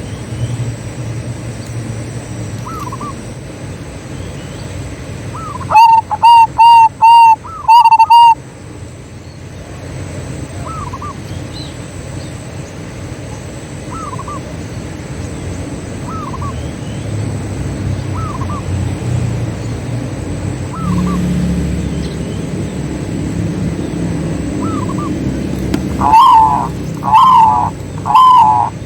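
Zebra doves (perkutut) cooing. A close bird gives a loud run of about five short notes around six seconds in and starts another run near the end, while fainter doves call single phrases every couple of seconds in between.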